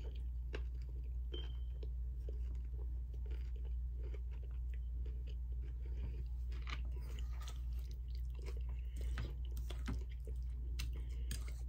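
Chewing and mouth sounds of a person eating beef and broccoli, with many small irregular clicks and smacks, over a steady low hum.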